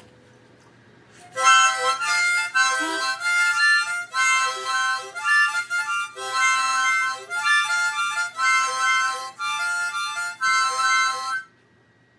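An instrumental solo without singing: a single instrument plays short phrases of several notes at once, starting about a second in and stopping shortly before the end.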